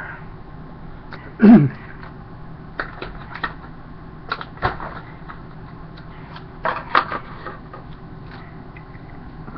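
Toy-car packaging being handled and pried open: scattered clicks and crinkles of plastic and cardboard, with one louder scrape about a second and a half in that falls in pitch.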